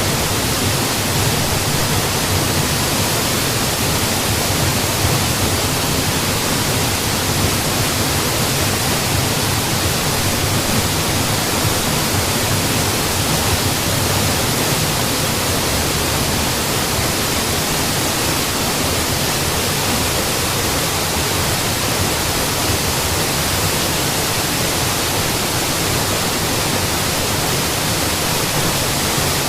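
A mountain waterfall falling steadily, a constant loud rush of water with no breaks or changes.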